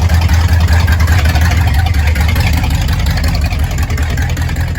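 A car engine running steadily with a deep, even rumble, as the car rolls past.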